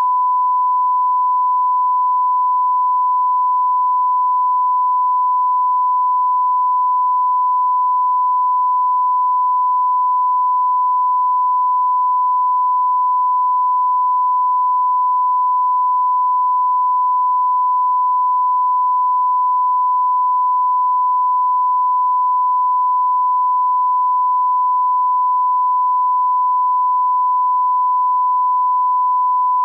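A steady pure test tone at one unchanging pitch and level, a line-up reference tone placed ahead of the programme.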